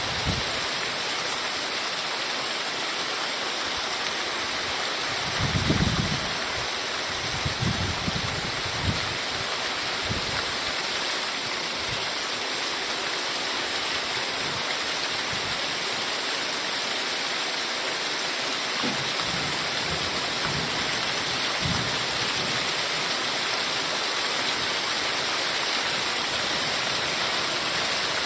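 Heavy rain falling steadily, a dense even hiss, with a few brief low thumps about six seconds in and again around twenty seconds.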